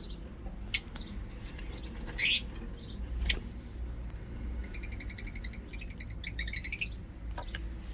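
Lovebirds chirping: a few sharp single chirps, the loudest about three seconds in, then a rapid chattering run of calls lasting about two seconds, and one more chirp near the end.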